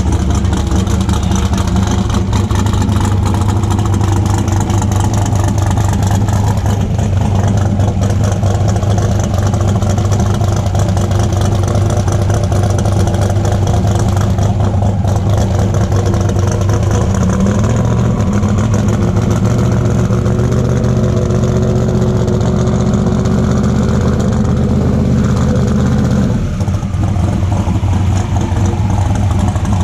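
Drag race car engine idling loudly and steadily, with a brief rise in pitch about two-thirds of the way through and a change in its note near the end.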